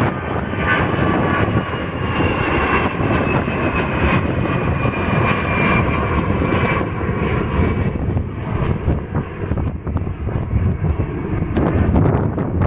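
Airliner's engines passing, a steady low rumble with a whine that slowly falls in pitch and fades after about seven seconds.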